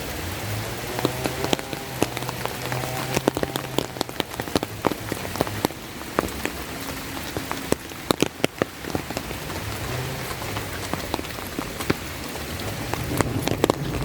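Steady rain falling, with many sharp, close drop taps on an umbrella overhead throughout.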